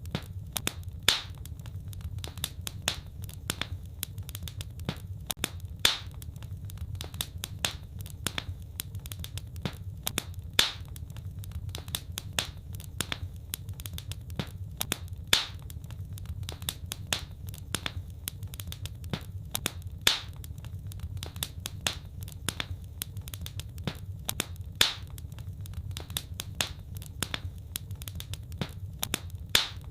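Wood fire crackling, with many small sharp crackles over a steady low rumble of the flames and a louder pop about every five seconds.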